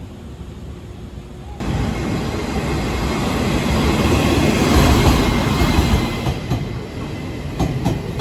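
A Chu-Kuang express train hauled by an E200-class electric locomotive rolls in alongside the platform. The rumble starts suddenly about a second and a half in, swells as the locomotive passes and eases as the carriages roll by. A few clicks of wheels over rail joints come near the end.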